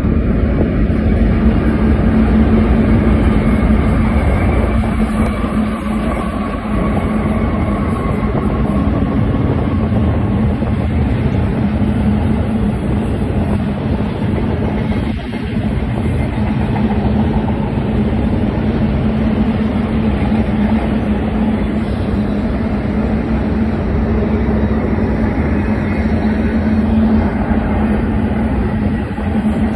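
Double-stack intermodal freight train passing: a steady rumble and clatter of steel wheels on rail, with a continuous low hum.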